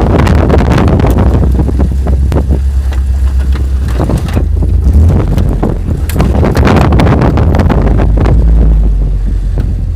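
A vehicle driving off-road: a loud, low rumble with wind buffeting the microphone, broken by scattered knocks and rattles.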